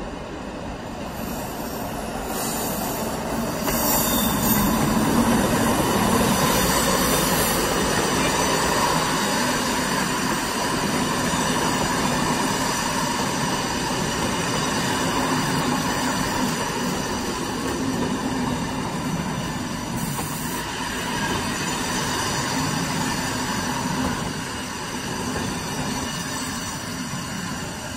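SNCF electric locomotive-hauled trains rolling slowly through a station, including a double-headed freight train led by BB 7200-class locomotive 7344: a steady rumble of wheels on rail with some wheel squeal. The noise is loudest a few seconds in and eases off toward the end.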